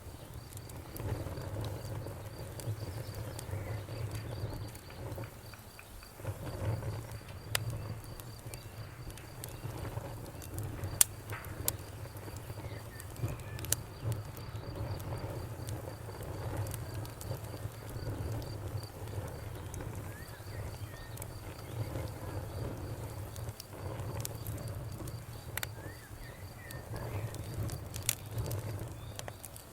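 Campfire burning with scattered sharp crackles and pops over a low rumble, one pop about eleven seconds in louder than the rest.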